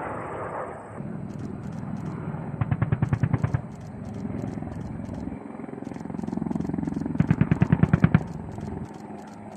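Two bursts of rapid automatic gunfire, about ten shots a second and each lasting about a second, one near the start and one near the end, over a steady low rumble.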